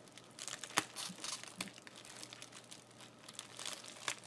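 Crinkling and crackling as a reflective car sunshade and strips of tape are handled and pressed down, in irregular bursts with a sharp crackle about a second in.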